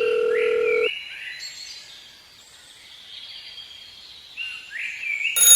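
A steady tone held for about the first second and then cut off, followed by birds chirping in short, repeated rising-and-falling notes.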